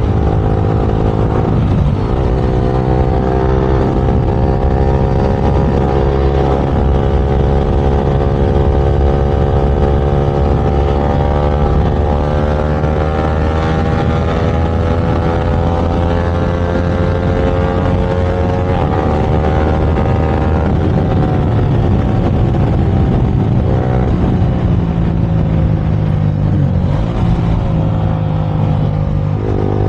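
Motorcycle engine running hard at speed during a street race, its pitch climbing slowly for about twenty seconds and then falling, with short dips near the start and near the end.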